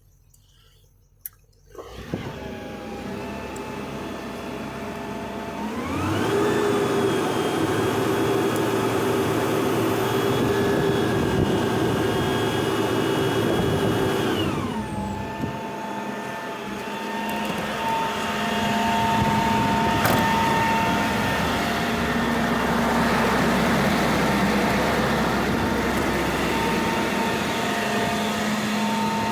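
The GMC C5500 medium-duty truck's engine comes on about two seconds in and runs with a whine, then is revved up and held at a higher, steady speed for about eight seconds before dropping back to idle.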